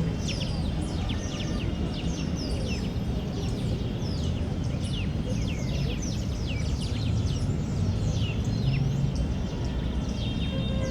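Several small birds singing and chirping at once, a dense run of quick, high, mostly falling notes, over a steady low background rumble.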